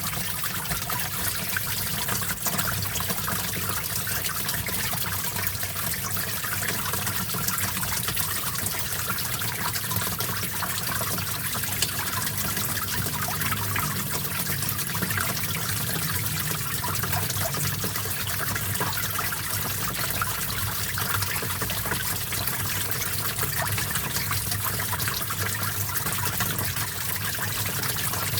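Small stream of water trickling and babbling steadily over stones.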